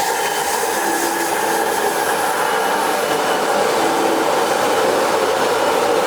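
Steady, loud machinery noise: a constant hiss with a faint hum through it, unchanging.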